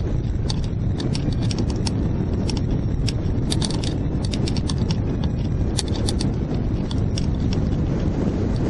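Strong wind rumbling and buffeting over the microphone in flight, with irregular sharp clicks and rattles throughout.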